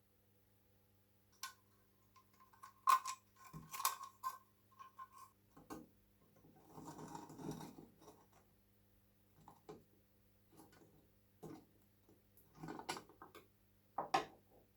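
Faint, irregular clicks and taps of light metal parts being handled, a few with a short ringing note, and a scraping rustle about seven seconds in. Thin crimped sheet-metal parts of an old kerosene storm lantern.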